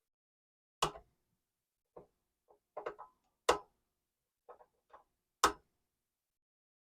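Flush cutters snipping the bent leads of newly fitted capacitors on a circuit board: three sharp snaps about two seconds apart, with fainter clicks in between.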